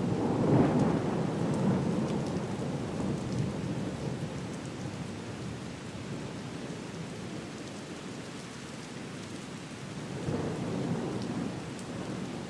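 Steady rain with low rolls of thunder, one fading over the first few seconds and another swelling up near the end, and a few faint crackles from a fireplace.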